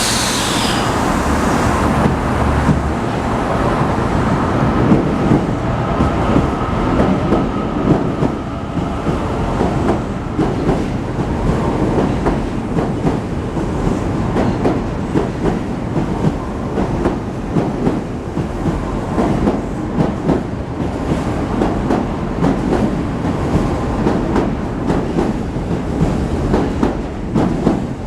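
Osaka Midosuji Line 10A series subway train with VVVF inverter control pulling away from a station. Its traction motors give a tone that rises for the first several seconds, and the wheels clatter over rail joints in a steady run of strokes.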